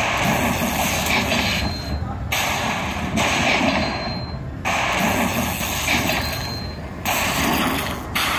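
Slot machine running automatic free spins, a block of noisy spin sound about every two and a half seconds, each stopping abruptly, over casino floor chatter.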